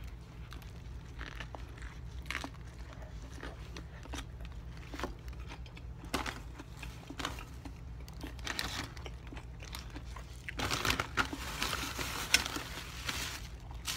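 Chewing and biting into a Subway sub on herb-and-cheese bread, with soft scattered crunches and mouth clicks. About three-quarters of the way through comes a denser spell of crinkling, like a food wrapper being handled.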